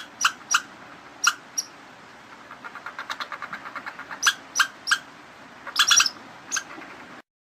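An animal's short, sharp, high-pitched calls, given singly and in quick pairs, with a fast run of softer chattering notes about three seconds in; the clip cuts off just before the end.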